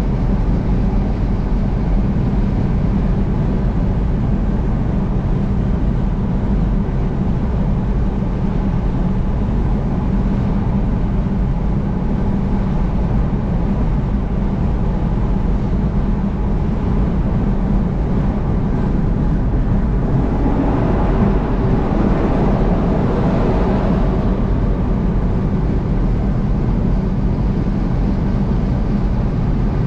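Steady low road and engine rumble of a vehicle driving at highway speed, heard from inside the cabin. A rushing swell rises and fades between about 20 and 24 seconds in.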